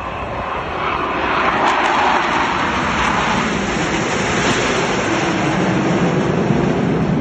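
Military aircraft flying past, a loud engine rush that swells about a second in and stays loud.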